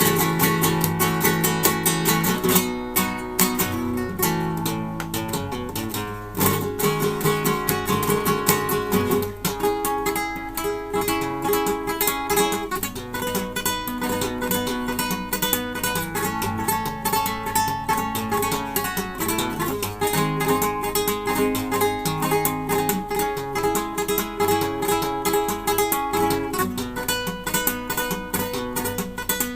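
Classical guitar played solo: a continuous passage of rapidly plucked notes and chords, with a few brief pauses around six and twenty-seven seconds in.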